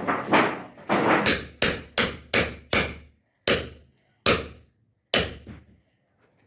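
Hammer blows struck one after another, each with a short ring: about three a second at first, then spacing out and stopping after about five seconds.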